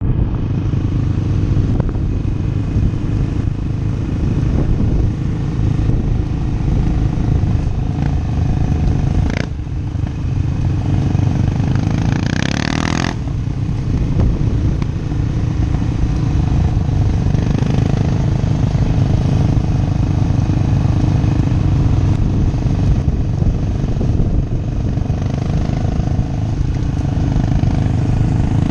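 Motorcycle engine running hard under load, with a brief sharp break about a third of the way in and a rising rev shortly after.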